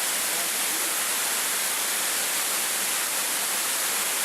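Steady, even hissing noise with no separate events, brightest in the high register.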